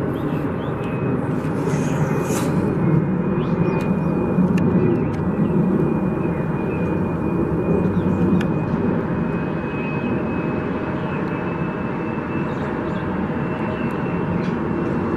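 Jet airliner engines running: a steady rumble with a thin high whine over it, a little louder in the middle.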